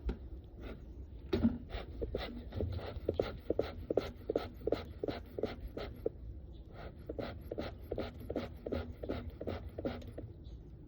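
Bee smoker's bellows squeezed over and over, puffing air through the smoker about three times a second, with a short break about six seconds in; the smoker is close to going out.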